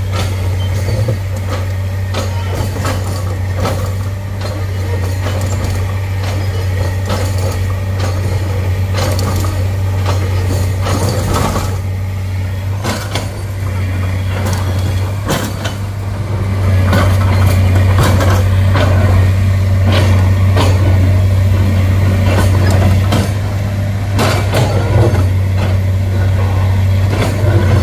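Heavy diesel engine running steadily under load, with scattered metallic knocks and clanks over it; the engine gets louder a little past halfway through.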